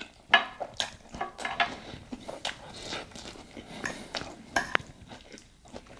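Cutlery clicking and scraping against a dish while eating, a series of short, irregular clinks.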